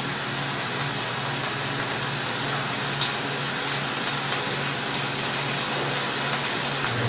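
Chicken breast frying in vegetable oil in a non-stick pan over medium-high heat: a steady, even sizzle.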